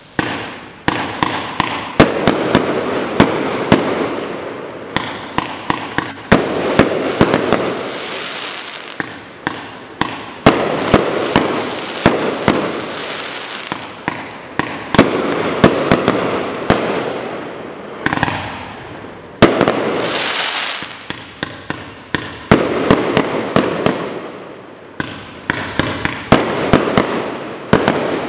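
Firework compound cake firing continuously: volleys of sharp bangs from bursting shots, each volley trailed by a crackling wash that dies away over a second or two before the next.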